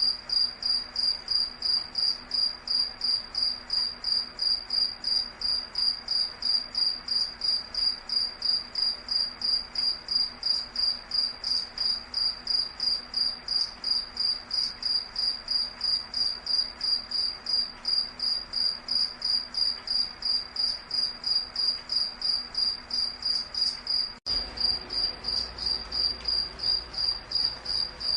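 Cricket chirping steadily in a high, even rhythm of about three to four chirps a second, with a brief dropout near the end.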